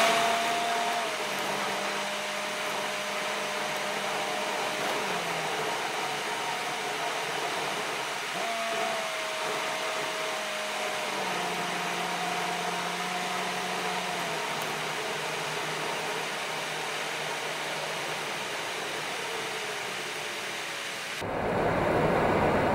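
Steady hiss of a car's cabin while driving on a winter road: tyre and road noise with a faint whine that shifts in pitch a few times. Near the end it grows louder, with a deeper rumble.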